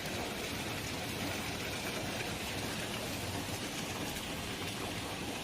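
Rain falling steadily: an even hiss with no break.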